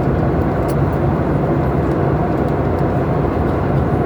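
Steady cabin noise inside a Boeing airliner in flight: an even roar of jet engines and airflow, strongest in the low range, holding level.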